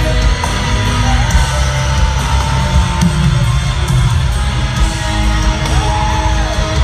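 Alternative-metal band playing live at full volume: distorted electric guitars over steady drum hits, with a voice gliding in pitch over the top.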